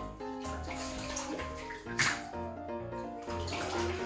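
Background music over water sloshing and splashing in a bathtub as an otter swims, with a sharper splash about halfway through.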